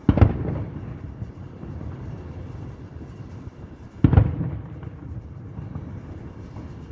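Two aerial fireworks shells bursting, booms about four seconds apart, each followed by a low rumbling echo.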